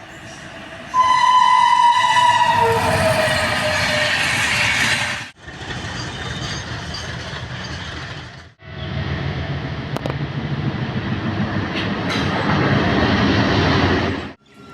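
A train horn sounds about a second in, its pitch falling slightly as it blows, over the running noise of a passing train; the rail rumble and clatter then continue across three clips that cut off abruptly.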